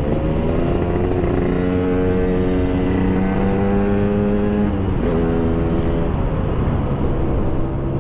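Yamaha RX-King's two-stroke single-cylinder engine with an aftermarket PDK exhaust running hard; its pitch climbs steadily for about three seconds, then drops abruptly about five seconds in, as in accelerating and shifting gear.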